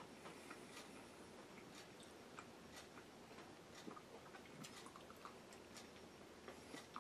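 Near silence broken by faint chewing and scattered small clicks as a person eats a meatball from a fork.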